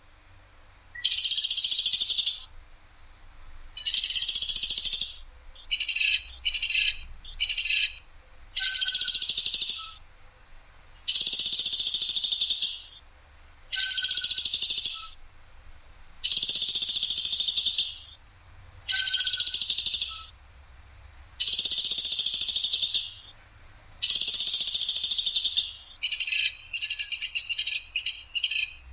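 Platuk sampit, a woodpecker, giving a series of loud, harsh, rattling calls of about a second each, repeated every two to three seconds, with a few broken into shorter bursts. This is the clear, sharp 'nembak' call used as masteran for training songbirds.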